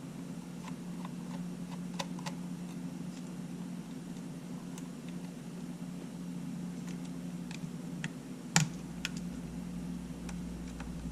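Small scattered clicks and taps from hand tools and small camera parts being handled during disassembly, with one sharper click about eight and a half seconds in, over a steady low hum.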